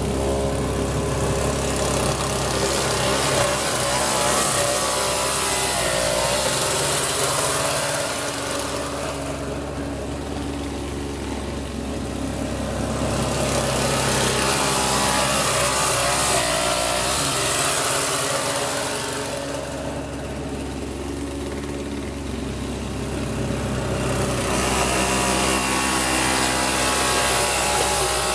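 Snapper LE17 snowblower's 3.5 HP two-stroke Tecumseh engine running, with a hiss that swells and eases three times over long stretches.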